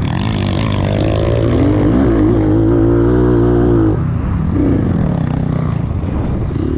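Enduro motorcycle engine pulling hard under acceleration, its pitch rising for about four seconds, dropping suddenly, then climbing again.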